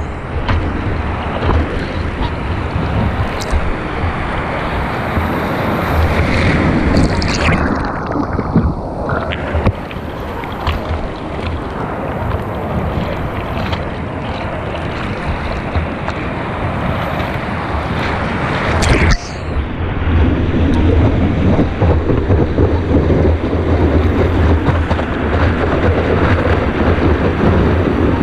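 Ocean surf washing onto the beach, with wind buffeting the microphone in a heavy low rumble. About two-thirds of the way through the sound changes abruptly and the wind rumble gets heavier.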